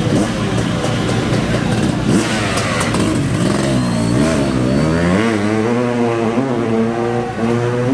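Off-road racing engine revving, its pitch falling and rising a few times about halfway through, then held steady near the end. A few sharp clicks sound about two to three seconds in.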